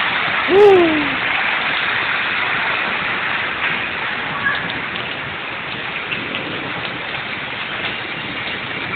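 Hard rain pouring down, a dense steady hiss of rain falling on surfaces. A short voiced exclamation rises and falls a little over half a second in.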